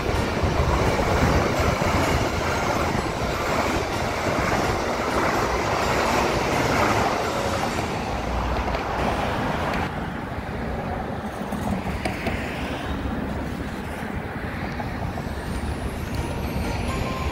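A passing train: a loud, steady rumble and rush that drops off suddenly about ten seconds in, then continues more quietly.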